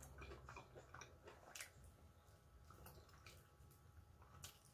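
Faint mouth sounds of someone chewing turkey leg: soft wet smacks and small clicks, more frequent in the first two seconds, then sparse.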